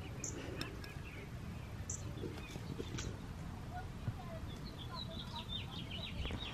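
Birds chirping, with a quick run of high chirps near the end, over a low steady rumble; a single sharp click about three seconds in.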